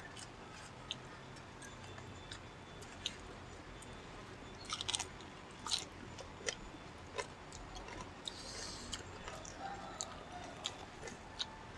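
Eating by hand at close range: soft chewing with scattered small clicks and mouth smacks, a cluster of them about five seconds in, as grilled chicken is pulled apart with the fingers and eaten.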